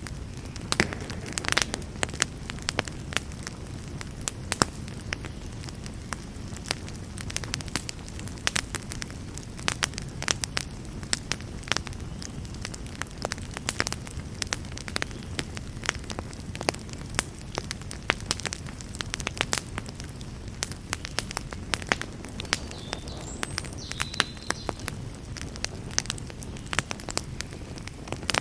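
Wood campfire burning: many sharp crackles and pops, several a second and irregular, over a steady low rumble of flame.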